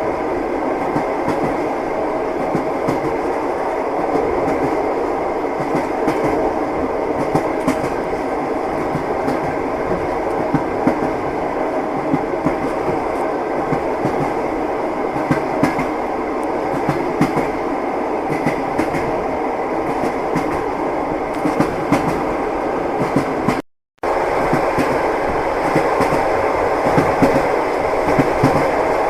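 Train wheels clattering over the rails, a steady rumble with frequent clicks. The sound cuts out completely for a split second about three-quarters of the way through.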